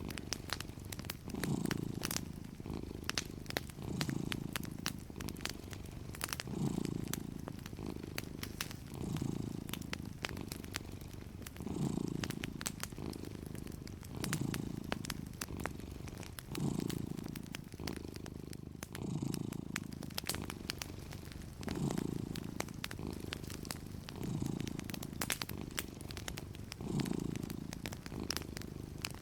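A cat purring steadily, its low purr swelling and easing with each breath. Over it, a wood fire crackles with frequent small sharp pops.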